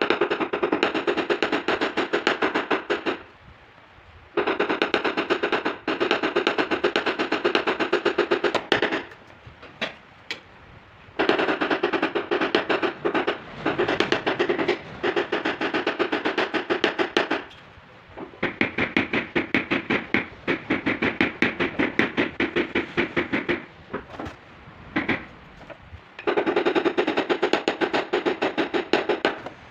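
Rapid light tapping on a car's sheet-metal body panel: a paintless dent repair hammer and knockdown tool working a body line. It comes in five runs of fast, even taps, a few seconds each, with short pauses between them, and the metal rings slightly with each tap.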